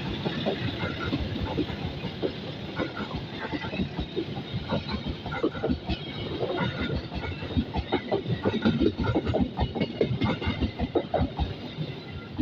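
A train passing close by, its wheels clattering rapidly over the rail joints. The clatter grows denser and louder in the second half.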